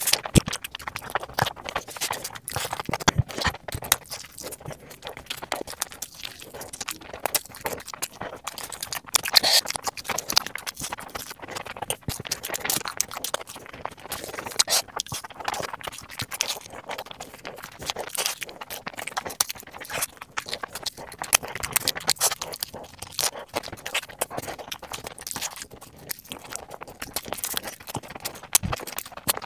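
Close-miked eating: wet chewing and lip smacking over mouthfuls of momo dumplings and spicy fried noodles, with irregular sharp mouth clicks throughout.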